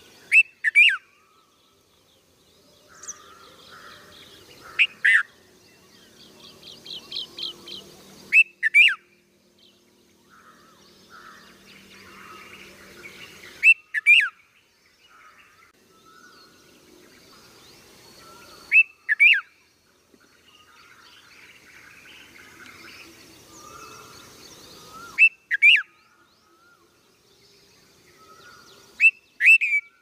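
Small songbirds calling at a nest with nestlings. Loud sharp chirps come mostly in pairs, about every four or five seconds, with softer chirps and chatter between them and a short rapid trill about six seconds in.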